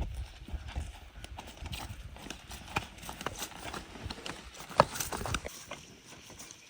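Irregular clicks and knocks, one sharper knock a little before five seconds in, over a low rumble that stops about five and a half seconds in.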